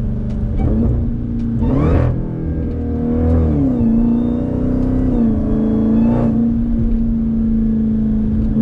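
Jeep Grand Cherokee Trackhawk's supercharged 6.2-litre V8 downshifting, with short rev blips about two and six seconds in. The supercharger whine rises and falls with the revs.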